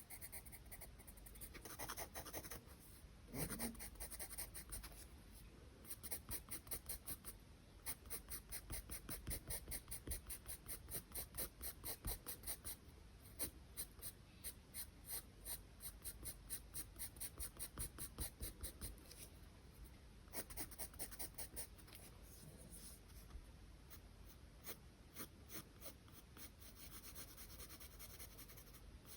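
Charcoal pencil scratching on drawing paper in runs of quick short strokes, at times about four or five a second, with brief pauses between runs.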